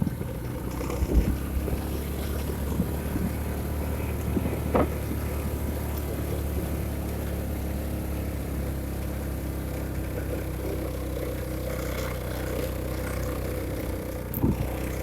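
A vehicle's engine running steadily on the road, a low even hum with a few faint knocks and clicks.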